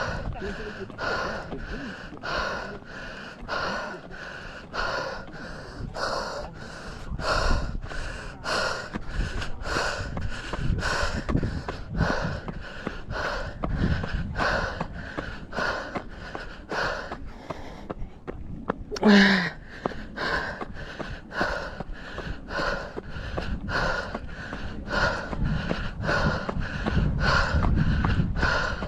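Heavy, rhythmic breathing of a runner climbing a steep trail, about one and a half breaths a second. About 19 seconds in, the breathing pauses briefly and a short voiced sound falls in pitch. A low wind rumble on the microphone sits underneath.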